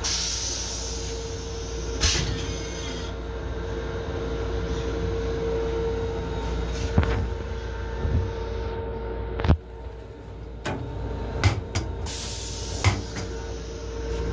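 Long Island Rail Road M7 electric railcar running, heard from inside its restroom: a steady rumble with a constant hum, broken by scattered sharp knocks and clicks. The rumble drops briefly about two thirds of the way through.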